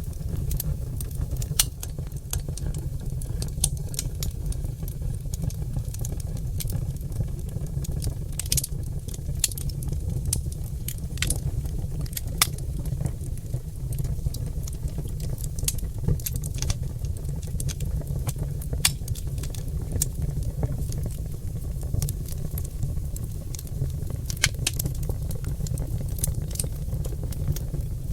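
Oak log fire crackling and popping: many sharp, irregular snaps over a steady low rumble.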